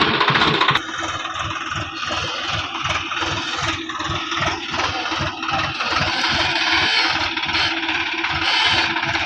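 Swaraj 735 XT tractor's three-cylinder diesel engine drops from a louder, harsher run to idle about a second in, then idles with an even thudding beat of about three pulses a second.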